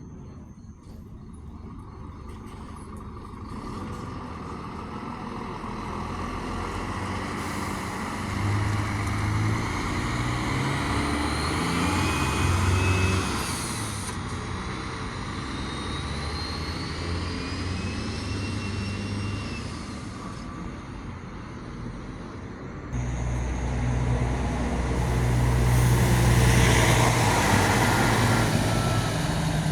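Diesel buses passing on a city street, one after another. The first builds up over several seconds with its engine running and a whine that rises and falls as it goes by. A second, louder bus comes in suddenly about two-thirds of the way through and peaks near the end.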